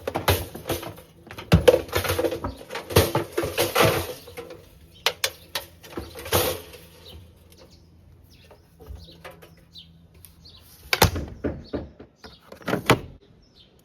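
Irregular knocks, clunks and rustling of things being handled. They come thick for about the first seven seconds, thin out, then come back as two sharp clunks near the end.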